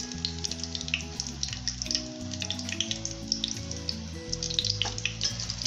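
Mustard seeds sizzling in hot oil in a kadhai, with many quick small crackles as they start to pop for a tadka, over background music.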